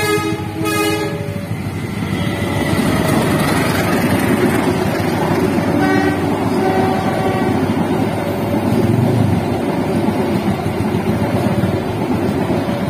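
Passenger train passing over a road level crossing. A long horn blast cuts off about a second in, then the coaches run past with a steady rumble and rail clatter. A short horn toot sounds about halfway through.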